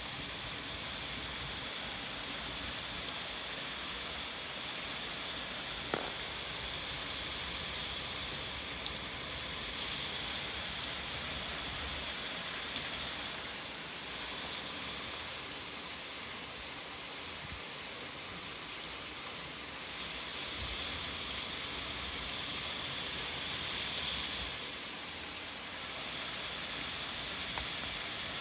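Heavy rain pouring steadily, with one sharp tap about six seconds in.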